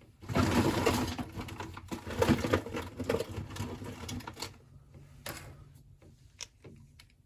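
Colouring supplies rattling and clicking as they are rummaged through and picked out, a busy clatter for about four seconds that thins to a few scattered clicks.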